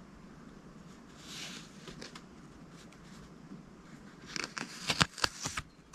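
Paper cards being handled: a soft rustle, then about four seconds in a quick run of sharp clicks and rustles.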